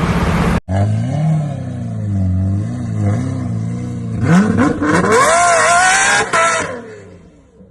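Supercar engine sound that breaks off abruptly less than a second in. It then idles with small wavering blips, is revved hard about four seconds in with the pitch climbing steeply, and drops away and fades near the end.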